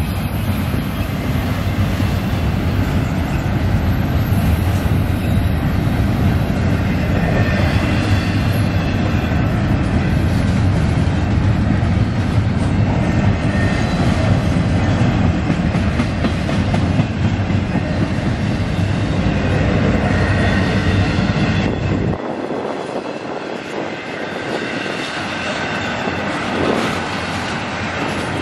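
Double-stack intermodal freight train's well cars rolling past, a loud steady rumble of steel wheels on the rails. About 22 seconds in the deep part of the rumble drops away suddenly, and the lighter rolling noise carries on.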